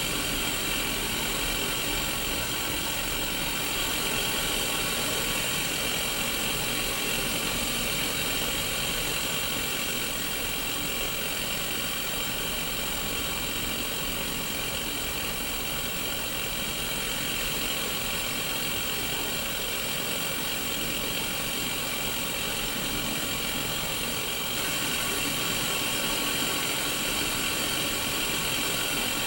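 Steady hiss of static from a Sony Mega Watchman black-and-white pocket TV tuned to an empty channel, played through its small speaker, brightest in the upper-middle range.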